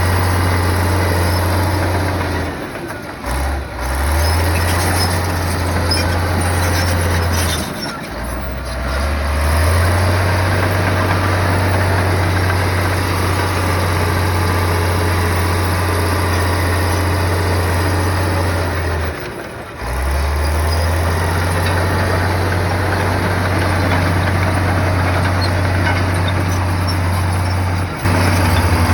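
Heavy bulldozer's diesel engine running with a steady low drone. It drops out briefly three times and comes straight back.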